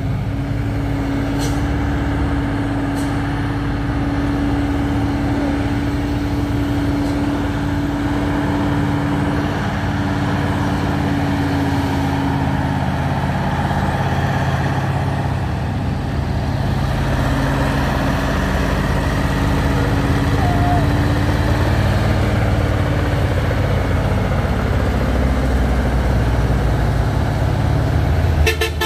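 Heavy truck's diesel engine running with a steady, even drone, its pitch shifting only a little as it goes.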